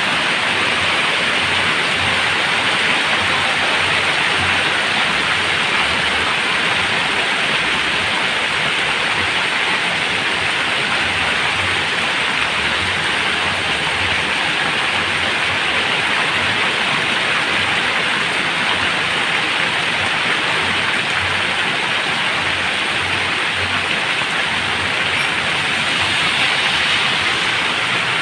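Heavy rain falling steadily, a dense, even downpour.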